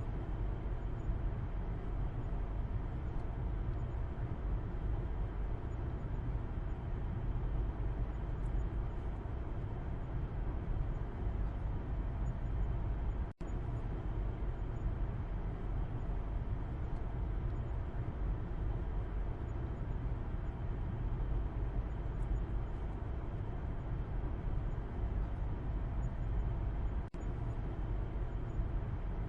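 Steady low road and engine rumble of a car driving, heard from inside the cabin from the back seat. Two very short dropouts break it, about halfway and near the end.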